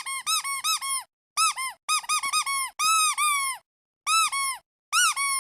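Squeaky rubber duck toy squeezed over and over: quick clusters of short, high squeaks, each rising then dropping in pitch, with brief pauses between the clusters.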